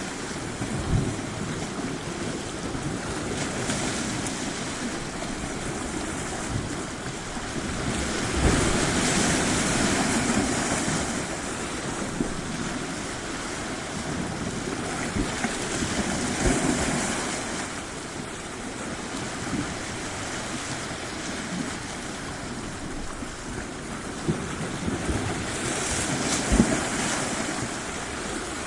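Tropical sea waves washing onto a shore, a steady rush of surf that swells louder every several seconds as waves break, with wind buffeting the microphone in short low thumps.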